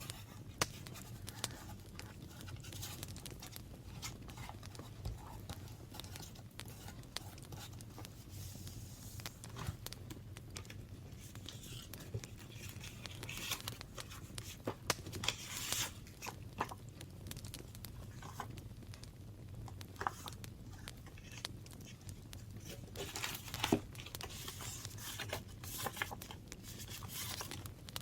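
Paper being handled for a scrapbook journal: rustling, crinkling and tearing, with scattered light taps and clicks. Longer stretches of rustling come about halfway through and again near the end.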